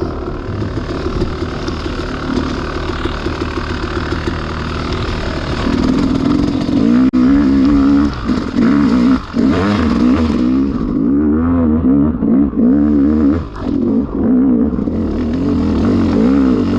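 Dirt bike engine running under load, getting louder about six seconds in, with the revs rising and falling again and again as the throttle is worked, and a few brief drops where it is backed off.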